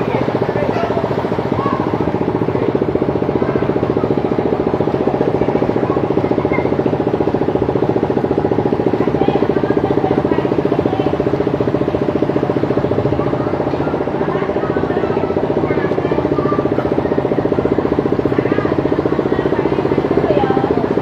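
An engine running steadily at an unchanging pitch.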